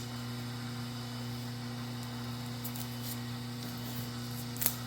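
Steady electrical mains hum, with a few faint scrapes and one sharp click near the end.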